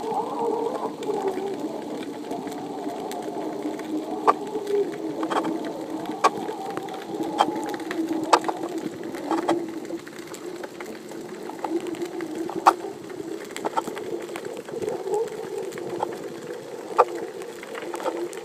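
Underwater sound picked up by a submerged phone: a steady, wavering hum with a dozen or so sharp clicks scattered through it.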